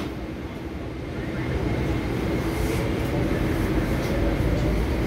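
Interior running noise of an MTR SP1900 electric multiple-unit train: a steady rumble and hum that grows louder over the first second or so, with a faint whine coming in a couple of seconds in, as the train gets under way.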